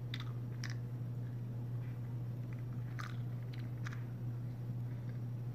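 A person chewing a chocolate-covered cashew close to the microphone: a few short, sharp crunches spread through, over a steady low hum.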